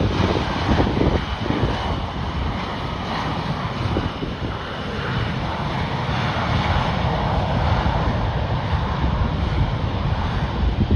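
Airliner engines running, heard through gusty wind rumbling on the microphone, the engine noise swelling a little in the second half.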